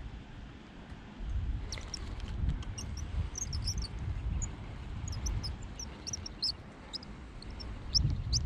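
Small birds chirping: many short, high chirps from about two seconds in, a few louder ones near the end. A low rumble sits underneath.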